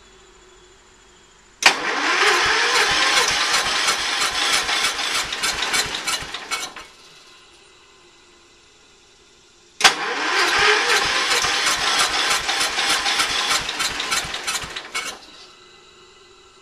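A Kohler K301 single-cylinder engine in a Ford LGT120 garden tractor is turned over on its electric starter in two tries of about five seconds each. Each try starts with a sharp click and dies away without the engine catching. It is a hard start on a weak battery, which the owner thinks may come from something wrong with the valves after a new piston was fitted.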